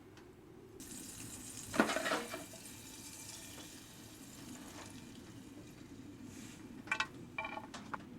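Butter sizzling in a hot pan, the hiss starting about a second in and carrying on steadily. A loud clatter of cookware comes about two seconds in, and a few lighter knocks near the end.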